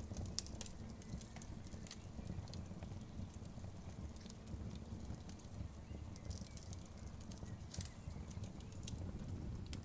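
Wood fire burning in a fireplace: logs crackling and popping in irregular sharp snaps over a steady low rumble of the flames.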